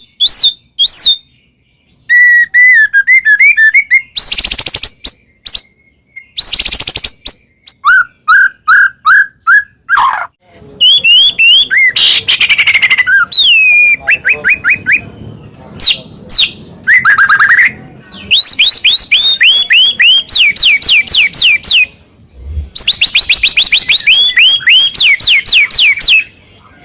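White-rumped shama (murai batu) singing a varied, loud whistled song: phrases of quick repeated notes and rapid up-and-down sweeps, broken by short pauses.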